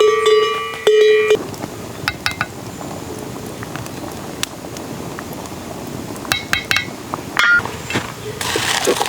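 A bell ringing with repeated strikes, cutting off about a second in; then scattered light clinks and knocks over a soft hiss, with a louder hiss swelling near the end.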